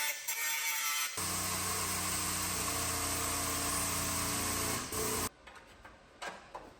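A power tool runs steadily for about four seconds, starting about a second in, then cuts off suddenly. A few faint knocks follow near the end.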